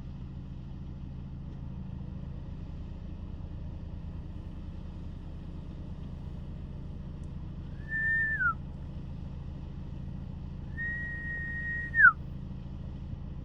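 Two whistled notes, a short one and then a longer held one, each ending in a quick downward slide, over a steady low rumble like an idling vehicle.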